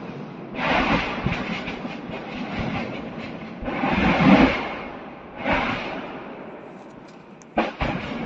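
Ammunition depot exploding: secondary blasts from munitions cooking off, heard as a run of booms that swell and fade. The biggest comes about four seconds in, and two sharp cracks follow near the end, over a steady rumbling hiss.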